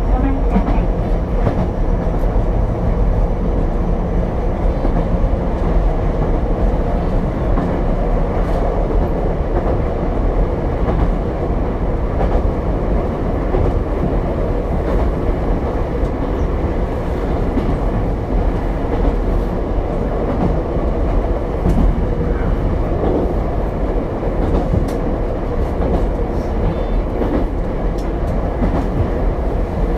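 Ichibata Electric Railway 7000-series single-car electric train running at steady speed, heard from inside the car: a continuous rumble of wheels on rail with a steady hum and occasional light clicks from the track.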